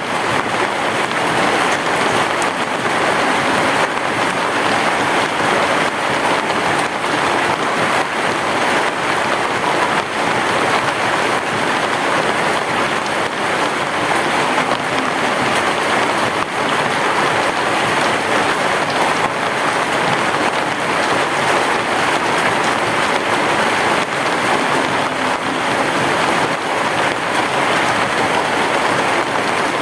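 Heavy rain falling on a roof, a dense, even patter that holds steady throughout, with no thunder.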